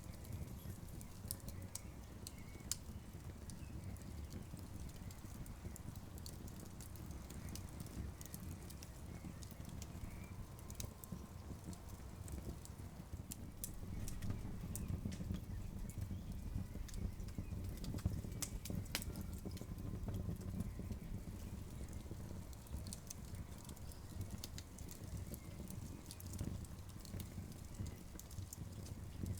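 Campfire wood crackling: scattered sharp snaps and pops, denser around the middle, over a low steady rumble.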